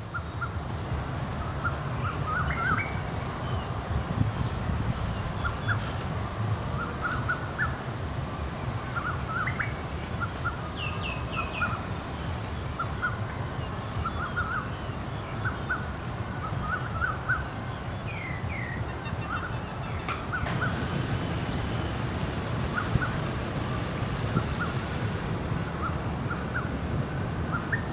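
Birds chirping: many short, high calls, some with quick downward slides, over a steady low rumble.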